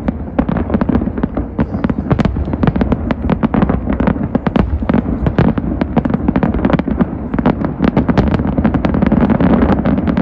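Fireworks display in a dense barrage: rapid cracks and bangs, many a second, over a continuous low rumble.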